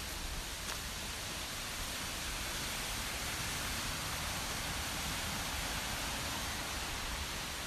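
Steady rushing of a waterfall: an even hiss over a low rumble, with no change.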